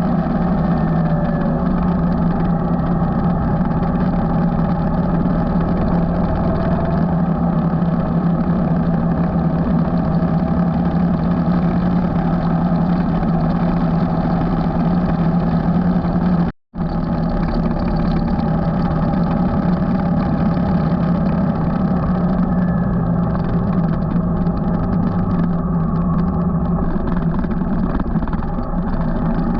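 Motorcycle engine running steadily at a cruise while riding. The sound cuts out for an instant just past halfway.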